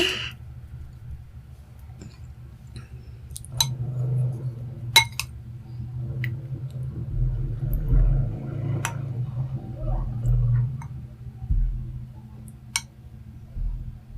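Cutlery clinking against dishware: a handful of sharp, separate clinks spread over several seconds, with soft low bumps of handling beneath a steady low hum.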